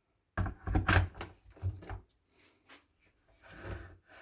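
Clunks and clicks of a plastic electric kettle being handled on its power base and its switch tried. No heating or boiling follows, because the kettle still does not work.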